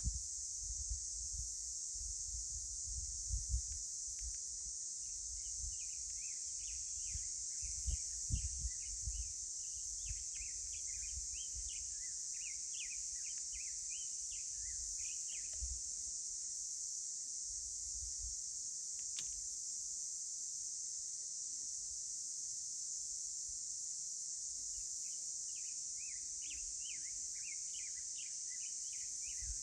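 Outdoor canyon ambience: a steady high drone of insects throughout, with bursts of rapid bird chirping from about five to sixteen seconds in and again near the end. A few low rumbles come in the first several seconds.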